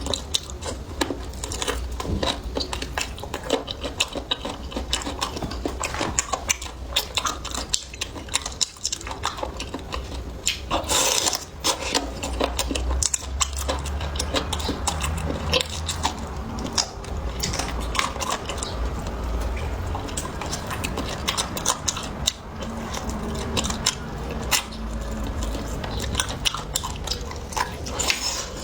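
Eating sounds: continuous chewing and biting, made up of many quick irregular clicks, with dishes and cutlery clinking now and then.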